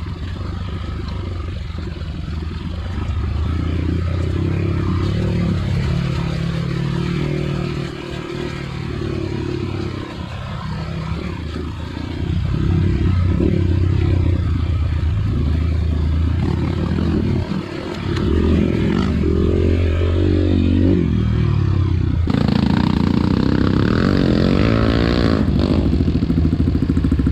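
Dirt bike engine running under load, the revs rising and falling repeatedly as it is ridden, with rattling and clatter over the rough ground.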